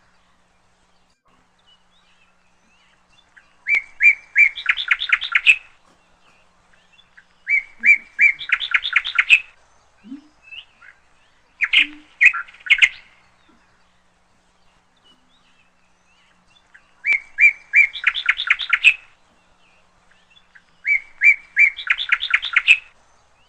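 A songbird singing the same short song over and over: a few clear notes, then a fast trill, each song about two seconds long, repeated five times with pauses of a couple of seconds between.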